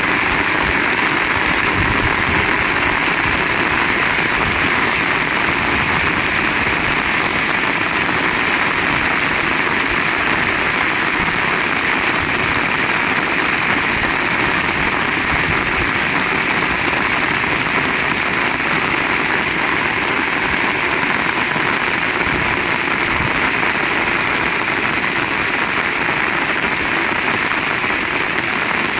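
Heavy rain pouring down and striking surfaces, a dense, steady hiss.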